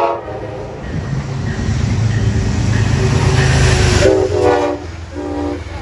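Metro-North train passing close by, a loud rush of wheel and air noise with deep rumble that builds and then cuts off sharply about four seconds in. Its multi-note chime horn sounds at the very start and twice more after the train noise drops, a short blast and then a shorter one.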